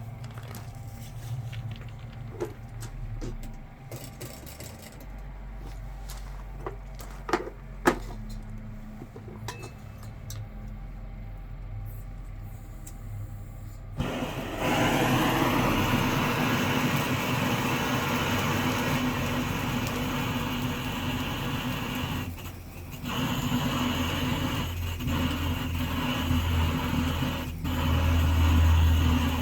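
A few light clicks and knocks, then about halfway a loud, steady motor noise starts suddenly and keeps running.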